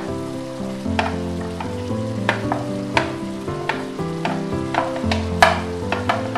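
Stir-fry sizzling in a hot wok as sliced green beans are pushed off a plate with a utensil, which clicks sharply against the plate about eight times, loudest about five and a half seconds in. Instrumental background music plays underneath.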